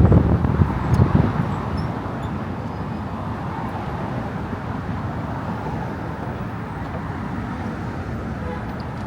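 Steady drone of motor traffic on the Brooklyn Bridge roadway, with a louder low rumble in the first couple of seconds that then settles.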